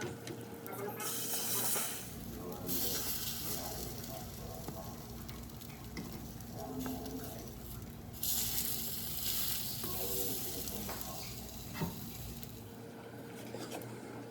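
Heavy rain falling, a steady hiss over a low rumble that grows louder about three seconds in and again about eight seconds in.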